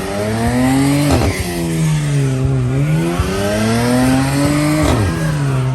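A car engine revving hard and held at high revs, its pitch swinging up and down. It climbs and then drops sharply twice, about a second in and near the end.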